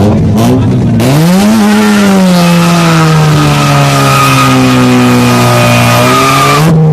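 Car engine revved hard and held high while the tyres squeal and hiss, as in a burnout or drift. The revs climb quickly about a second in, then sag slowly and hold until they cut off just before the end.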